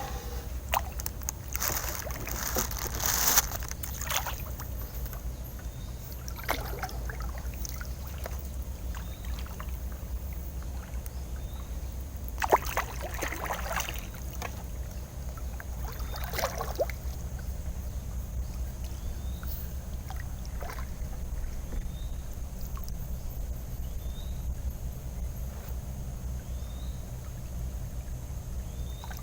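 Water lapping and sloshing around a small boat on a river, with a few short bursts of splashing and handling noise. The biggest bursts come about three seconds in and again about twelve to fourteen seconds in.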